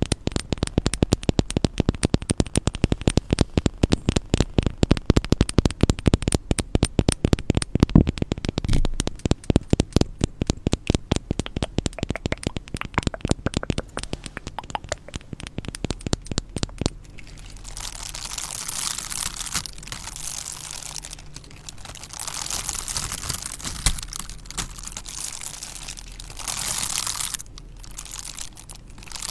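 Stones knocked together in quick sharp clicks, about five a second. Just past halfway they change to stones rubbed and scraped against each other in uneven scratchy strokes.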